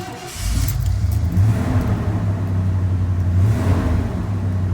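A motor vehicle's engine running with a loud, steady low rumble. It comes on about half a second in and starts to ease off near the end.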